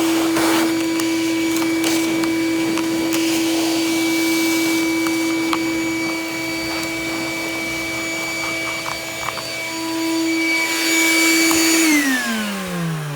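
Ridgid WD-6000 six-gallon wet/dry shop vac running with a steady whine while sucking lint out of a clogged dryer vent, with a few faint clicks along the way. About twelve seconds in it is switched off and its pitch falls as the motor winds down.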